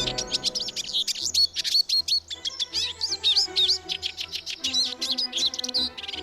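Small garden songbirds chirping and twittering in a rapid, unbroken stream of short rising and falling notes, with soft background music underneath.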